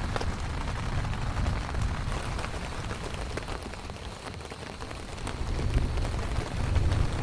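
Rain falling, with many individual drops ticking sharply against a surface, over a low rumble that fades about four seconds in and builds again near the end.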